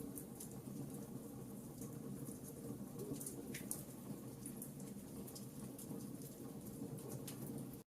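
Campfire burning, with scattered sharp wood crackles and pops over a steady low rush of flames. The sound drops out completely for a moment near the end.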